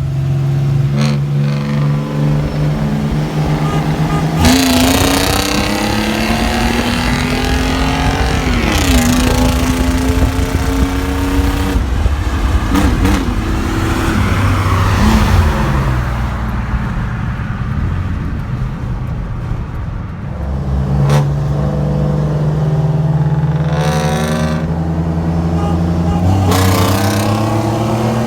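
Car V6 engine running and accelerating, with several pulls where the pitch climbs and then drops as it shifts, and a louder intake and exhaust surge on each pull.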